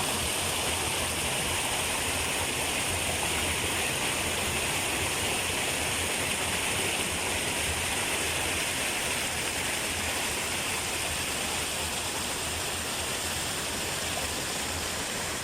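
Steady rush of water cascading from a small waterfall, easing slightly near the end.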